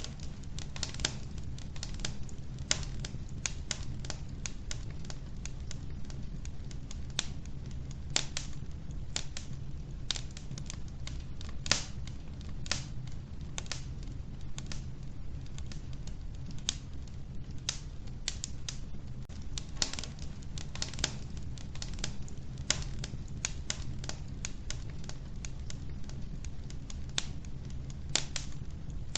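Wood fire burning in a wood-burning stove: logs crackling and popping in irregular sharp snaps, over a steady low rumble of the flames.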